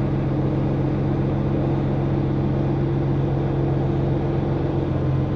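Articulated dump truck's diesel engine running steadily, heard from inside the cab, while the hydraulics lower the dump bed. It is a constant low hum with no change in pitch.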